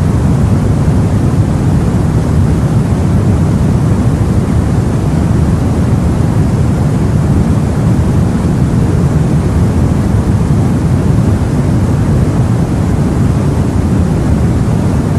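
Steady, unbroken low rumble of sea and wind, as heard aboard a boat.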